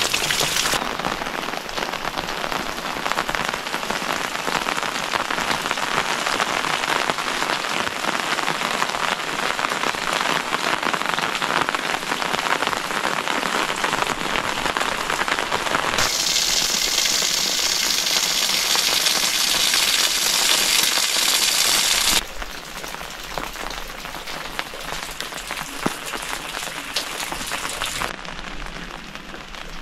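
Steady rain falling on wet ground and puddles, an even hiss. It shifts abruptly a few times: brighter and hissier for a stretch past the middle, then quieter for the last third.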